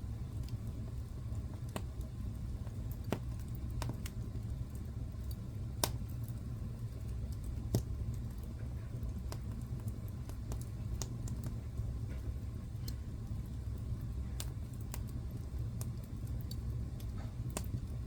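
Wood fire in a fireplace crackling, with irregular sharp pops over a steady low rumble; the loudest pop comes about eight seconds in.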